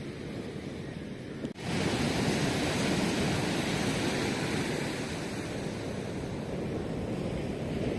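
Ocean surf washing onto the shore in a steady noise of waves. About one and a half seconds in the sound drops out for an instant and comes back slightly louder.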